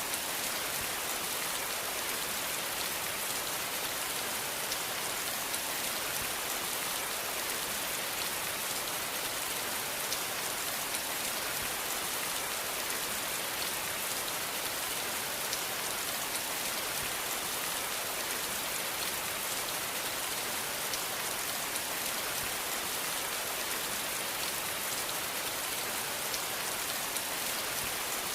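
Steady rain falling, an even hiss of drops on a surface with fine scattered patters and no thunder.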